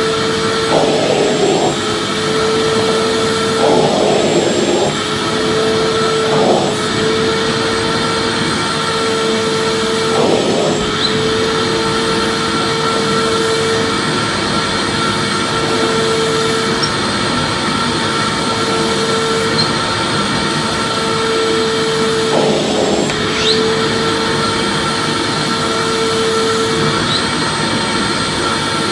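Vacuum cleaner running continuously, a loud steady rushing noise with a motor whine that briefly breaks off and wavers now and then.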